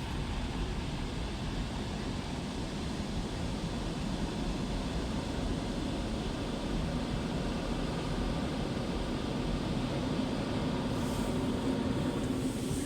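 Automatic car wash machinery running, heard from inside the car's cabin: a steady rumbling noise with a faint low hum, and a brief hiss about eleven seconds in.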